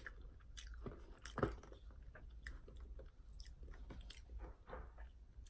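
A person chewing a waffle fry: faint, irregular soft crunching and mouth sounds, with one louder crunch about a second and a half in.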